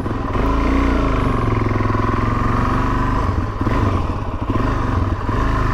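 Suzuki DR-Z400S's single-cylinder four-stroke engine running while the bike is ridden, with wind noise on the bike-mounted microphone. The engine note wavers and dips briefly around the middle, then steadies again.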